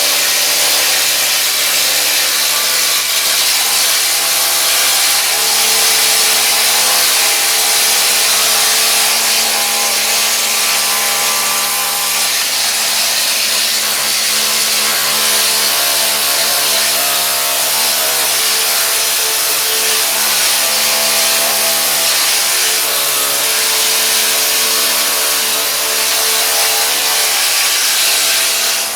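Pneumatic needle scaler running steadily against steel, knocking rust off the bottom of a rusted rocker panel.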